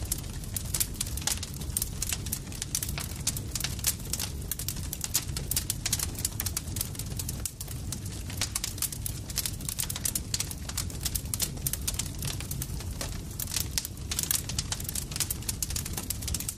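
Campfire crackling: dense, irregular sharp pops and snaps over a low steady rumble.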